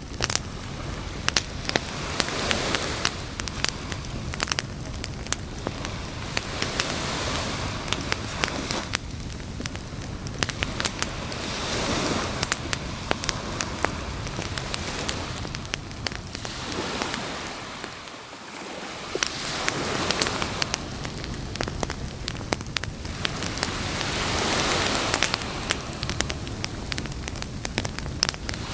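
Campfire crackling with many sharp pops, over a wash of beach surf that swells and fades every few seconds, easing off briefly about two-thirds of the way in.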